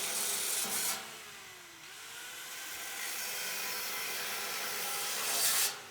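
Power tool cutting or grinding metal, a harsh steady rasping noise, with the motor's pitch dipping and then rising about two seconds in. It swells louder near the end.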